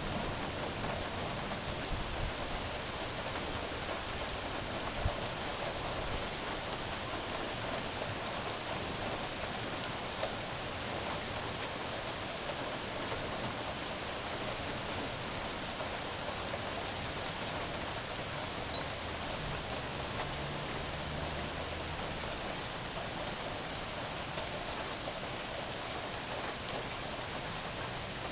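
Steady rain falling on a street, lawn and tree leaves, an even hiss with no let-up.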